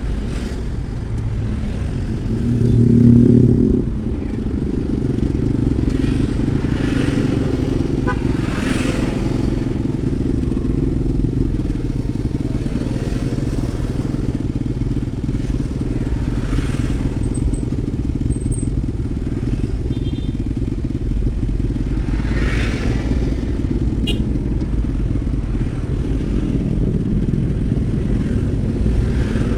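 Steady vehicle engine and road noise in traffic, with a louder engine swelling past about three seconds in and several other vehicles whooshing by.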